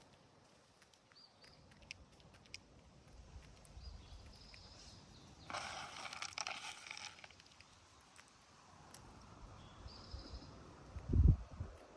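Rustling outdoors, loudest for a second or two around the middle, with a few short faint high chirps and scattered ticks, then a single low thud near the end.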